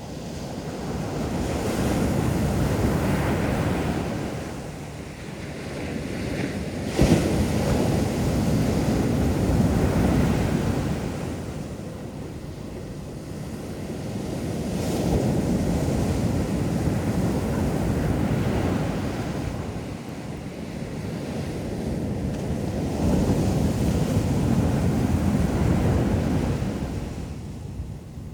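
Ocean waves breaking on a beach, the surf swelling and ebbing four times, with wind on the microphone. A brief sharp knock about seven seconds in.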